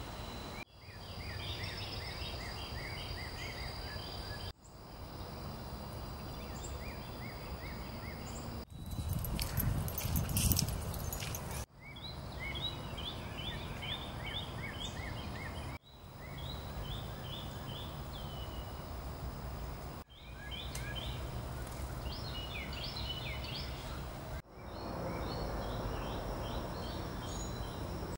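Outdoor ambience of songbirds singing runs of short, repeated chirps over a low steady rumble. The sound breaks off and starts again every four seconds or so, and in one stretch near the middle a louder rush of noise covers the birds.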